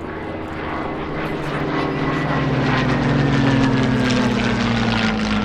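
WW2 piston-engined fighter flying past at speed: engine and propeller grow louder to a peak about three and a half seconds in, while the engine note falls steadily in pitch as it passes.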